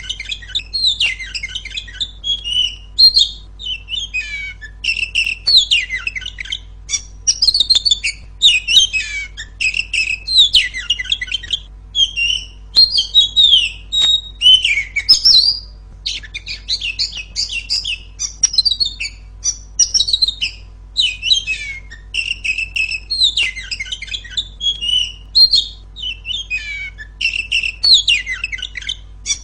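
Female Oriental magpie-robin (kacer) singing loudly: a rapid run of varied whistled and chattering phrases, one after another with short gaps.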